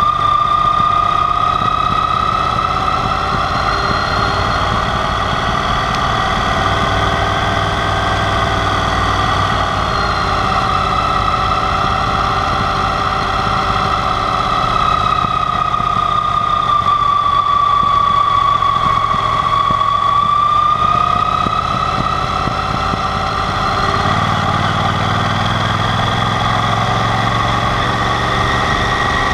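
Yamaha TDM 850 parallel-twin motorcycle engine running while riding, its pitch rising and falling gently with the throttle. The deep rumble grows fuller about five seconds before the end.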